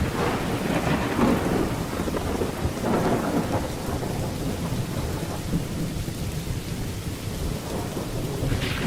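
Rain falling steadily during a thunderstorm, with thunder rolling low underneath. The thunder swells in crackling surges over the first few seconds, eases off in the middle, and gives a short sharp crack near the end.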